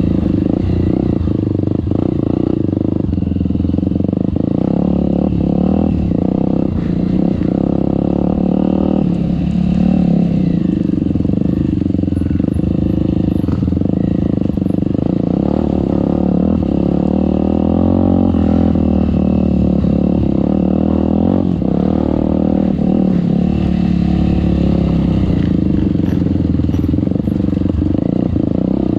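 Trail motorcycle engine running steadily, its pitch rising and falling a little with the throttle, with scattered short knocks throughout.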